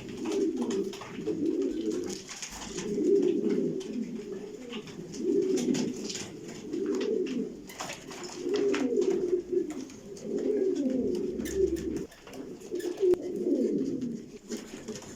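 White American check pigeons cooing: a series of about seven low, rolling coos, one every second or two, with faint clicks between them.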